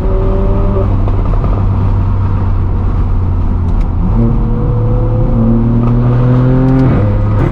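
Straight-piped BMW M4 F82's twin-turbo inline-six through an AWE Track exhaust, loud and steady at a cruise, then pulling with the engine note rising from about four seconds in. Near the end the revs drop abruptly.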